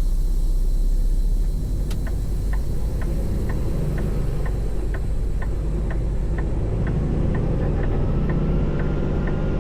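Semi-truck engine running with a low rumble inside the cab, and the turn signal ticking steadily about twice a second after a click about two seconds in.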